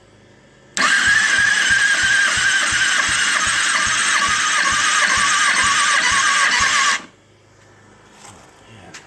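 2009 Kawasaki ZX-6R inline-four engine cranked on its electric starter without firing during a compression test of cylinder 3: a whirring starter with an even low pulse from the compression strokes. It starts about a second in, runs about six seconds and cuts off suddenly.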